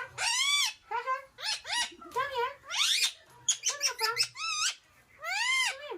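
Indian ringneck parakeet calling: a quick run of short, shrill squawks that rise and fall in pitch, about a dozen in all, the longest one just after the start and another near the end.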